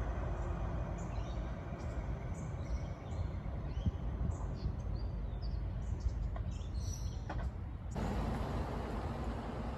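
Steady low rumble of a garbage truck's engine running, with small birds chirping over it. About eight seconds in, the sound changes abruptly to a louder, fuller rumble.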